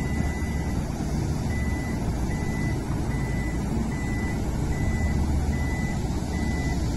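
Toyota RAV4 power tailgate closing, its warning buzzer giving short, evenly spaced beeps at one pitch, a little over one a second, over a steady low hum.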